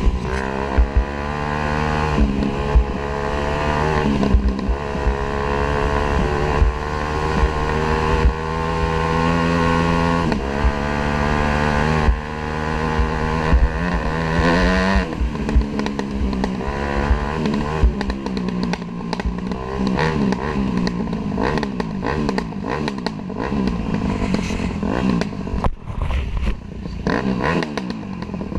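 Dirt bike engine running while riding, heard from a camera mounted on the bike. Its pitch climbs and then drops several times in the first half and wavers unevenly later. Frequent knocks and rattles run through it.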